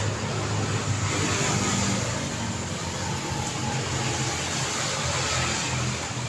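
Daytime road traffic: engines and tyres of passing vehicles in a steady wash, with one engine's hum louder in the first two seconds as it passes close.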